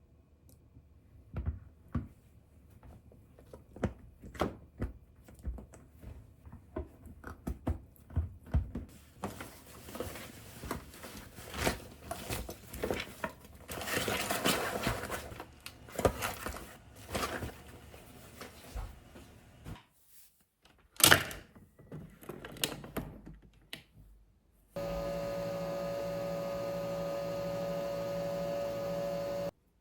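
Kitchen handling sounds: a run of light knocks, clicks and clatter, with one sharp knock about three-quarters of the way through. Near the end an electric appliance gives a steady hum for about five seconds, starting and cutting off abruptly.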